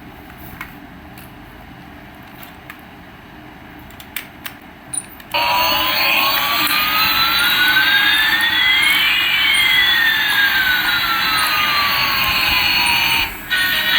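A few clicks, then a toy airliner's electronic jet-engine sound effect switches on suddenly about five seconds in: a loud rushing hiss with one whine rising and another falling across it. It cuts out briefly near the end and comes back.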